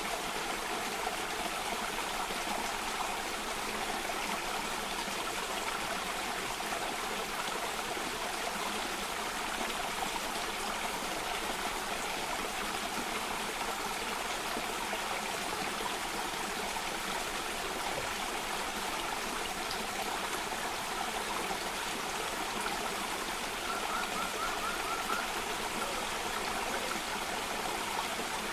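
Stream water cascading steadily over rocks, an even rushing. A short rapid high trill shows through about 24 seconds in.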